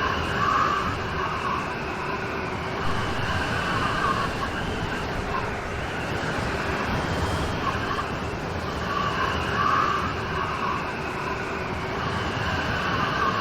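Steady rain falling in a downpour, an even hiss with no let-up. A faint mid-pitched sound rises out of it briefly near the start and again about two-thirds of the way through.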